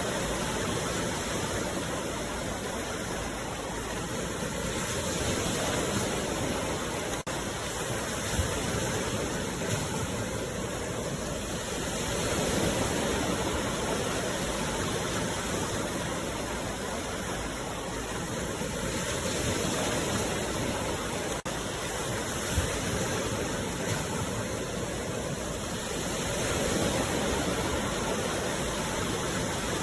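Sea waves washing in: a steady rush of surf that swells gently about every six or seven seconds.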